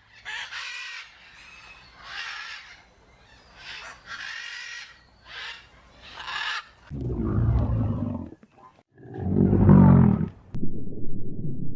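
A run of about eight short, high-pitched animal calls, followed by two loud, deep animal calls about two seconds apart.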